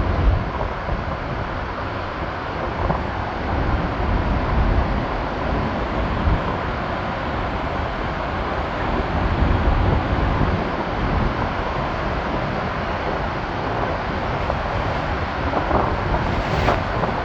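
Rain-swollen waterfall roaring steadily as a huge volume of water crashes onto the rocks right beside the microphone; a few short knocks sound near the end.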